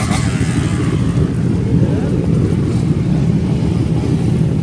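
Car engine running steadily at close range, a loud low sound without revving.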